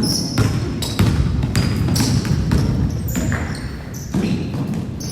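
A basketball bouncing on a gym floor during play, with irregular thuds and short high squeaks, over a low crowd murmur.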